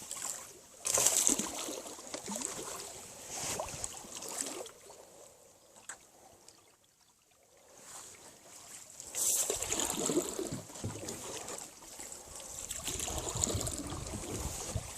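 A small boat being moved through weedy water: irregular splashes, sloshing and swishing of water and plants against the boat, loudest about a second in, with a quieter spell of a couple of seconds in the middle.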